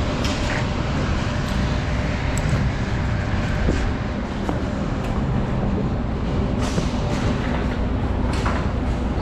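Steady low rumble of an idling semi truck's diesel engine, with a few brief rustles and knocks about seven and eight and a half seconds in.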